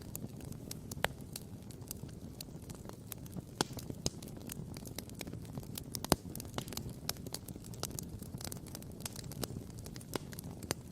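Wood campfire crackling and popping: many sharp, irregular pops and snaps over a steady low rush, with the loudest pop about six seconds in.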